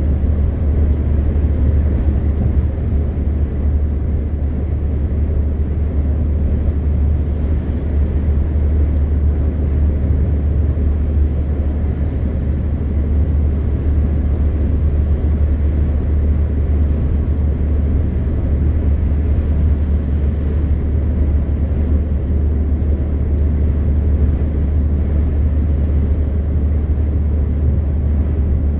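MAN TGX 520 truck's diesel engine droning steadily with road and tyre rumble while cruising at a constant speed.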